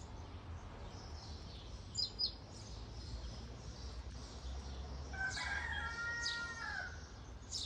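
Small birds chirping, with a pair of sharp chirps about two seconds in, and a rooster crowing once for under two seconds from about five seconds in.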